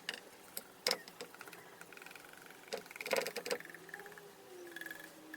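Handling of a heat-bent PVC pipe as the sand packed inside it is emptied out: a scattering of sharp knocks and clicks, with a denser cluster about three seconds in, and a few short ringing tones.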